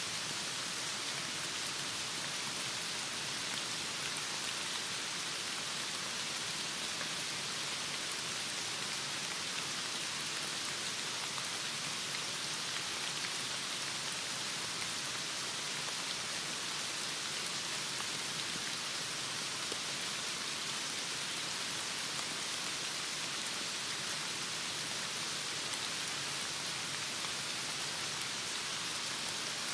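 Heavy rain falling in a steady, even hiss, with faint scattered drop ticks.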